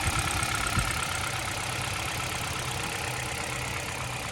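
2015 Toyota Corolla GLI engine idling steadily after repair of its noise problem, which the mechanic says is now fully cured. Two short knocks sound within the first second.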